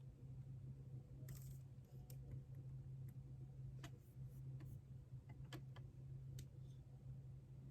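A few scattered keyboard keystrokes, single clicks at irregular intervals, over a steady low hum.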